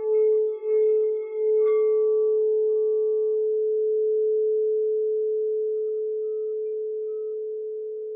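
Singing bowl ringing one sustained low tone that pulses in and out for about the first second, then holds steady and slowly fades. A brief light tap sounds about two seconds in.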